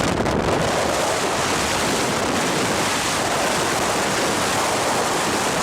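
Steady rushing of water, like surf, at an even level with no breaks.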